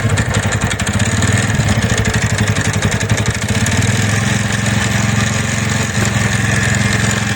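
TVS Ntorq 125 scooter's single-cylinder engine running, uneven for the first few seconds and then settling to a steady idle. It carries the noise from the magneto side that the mechanic traces to a loose flywheel (magnet) nut.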